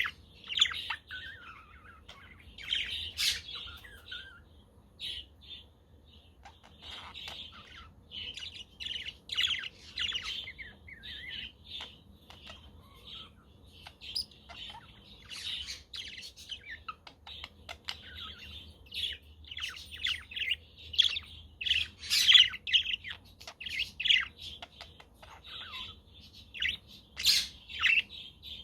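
Budgerigars chirping and chattering, a dense, irregular stream of quick high chirps with a few sharper, louder calls.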